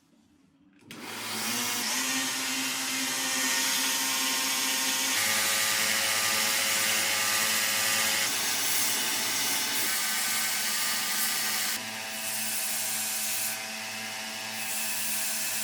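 An electric power tool running steadily with a rubbing, abrasive hiss on metal, starting about a second in and changing tone several times.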